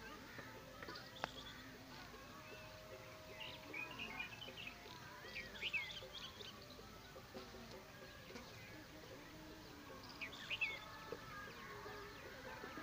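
Small birds chirping in short, sharp calls that come in clusters, about four to six seconds in and again around ten seconds in, over faint background noise.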